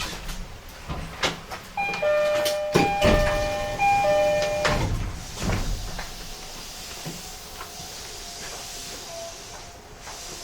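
Train door chime on an E131 series commuter train: a two-note chime repeats for about three seconds as the sliding doors work, with a heavy thud about three seconds in. Afterwards the car's steady background noise with a faint steady whine.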